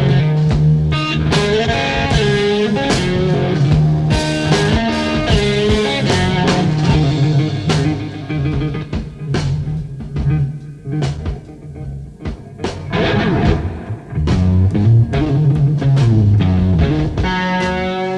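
Blues-rock guitar playing an instrumental passage over a low bass line, thinning to sparser notes about halfway through before the full playing returns with bent, sustained notes near the end.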